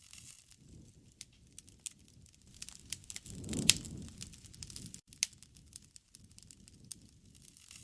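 Wood fire crackling with scattered sharp pops and snaps. About three and a half seconds in, a short low rumble swells up under the loudest crack.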